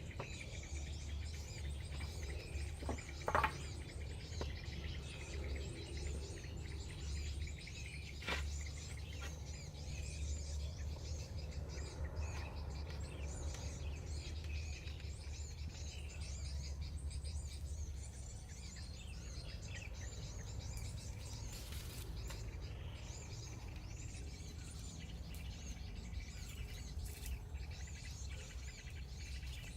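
Forest ambience of many small birds chirping over a low steady rumble, with a sharp knock about three seconds in and another about eight seconds in.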